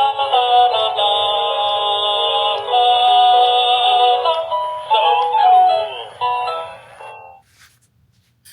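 Hallmark Sing-Along Showman Snowman plush playing its song through its small built-in speaker: thin, tinny singing with music that ends about seven seconds in. A faint click follows near the end.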